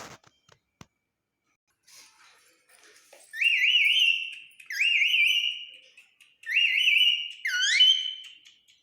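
Baby Indian ringneck parrot chicks calling: about four loud, wavering calls in quick succession, starting about three seconds in.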